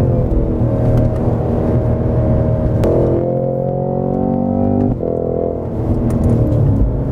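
Cadillac CT5-V Blackwing's 6.2-litre supercharged V8 pulling hard under full acceleration, its pitch climbing. It breaks off and drops sharply about five seconds in, as at a gear change.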